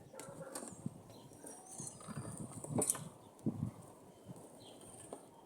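Irregular knocks, taps and rustling of hands working plant pots and soil, a few sharper knocks standing out about three seconds in.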